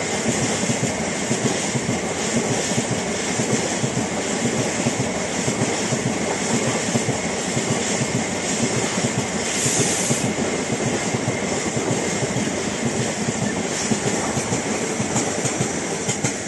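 Freight train of mostly empty container flat wagons passing close by, wheels clattering rapidly over the rail joints in a steady rumble, with a brief high-pitched sound about ten seconds in. The last wagon passes near the end and the noise begins to fade.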